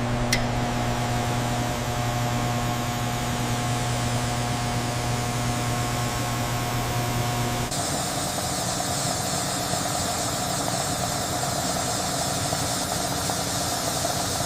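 Steady hum of running factory machinery, with a low drone and a few sustained tones. About halfway through it changes abruptly to a steadier, hissier machine noise.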